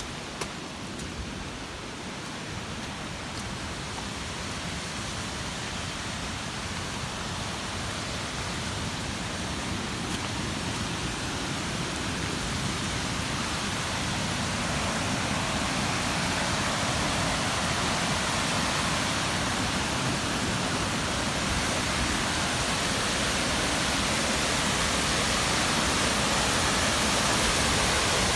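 Waterfall of rainwater off the hills, a steady rushing of water that grows gradually louder.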